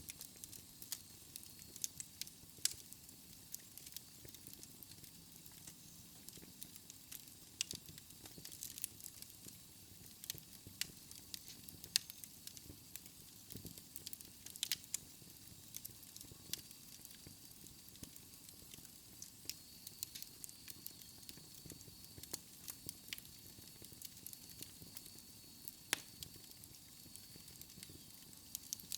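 Wood fire burning in a fireplace, logs crackling with irregular sharp pops over a soft hiss, and a faint thin whistle near the end.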